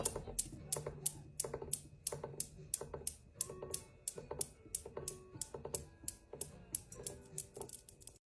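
A quick, even series of light clicks or taps, about three to four a second, over faint background music.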